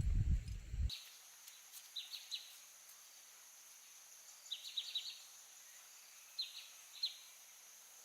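A low rumbling noise stops abruptly about a second in. After it come short bird chirps in small clusters every second or two, over a steady faint high-pitched insect hum.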